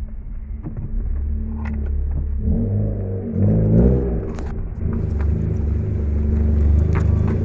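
Mitsubishi Lancer driving: engine running and road noise, with the engine pitch changing briefly about three seconds in and a few faint clicks. No rear-suspension clunk is heard, the sign that the worn rear stabilizer bar bushings, now replaced, were the cause of the noise.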